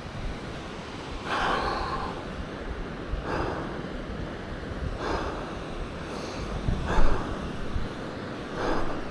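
A person breathing hard, a loud breath every second or two, close to the microphone, over steady wind noise.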